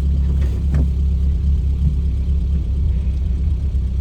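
A 1986 Toyota Corolla AE86 GTS's 4A-GE inline-four engine running steadily at idle just after a cold start, with a steady low rumble.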